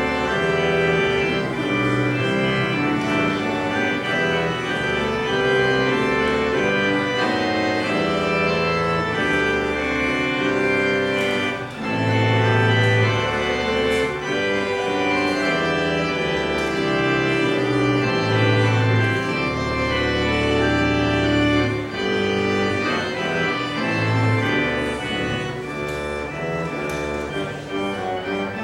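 Church organ playing the closing postlude: sustained chords over long-held low pedal notes.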